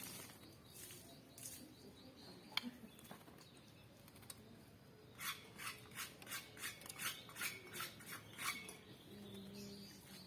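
A white-rumped shama bathing, splashing and fluttering in its water dish in a quick run of about ten splashes, roughly three a second. There is a single sharp click earlier.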